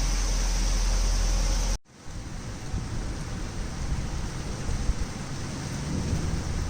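Torrential rain pouring down in a thunderstorm, a steady hiss. About two seconds in the sound cuts out briefly and comes back as a grainier, crackling patter of heavy rain.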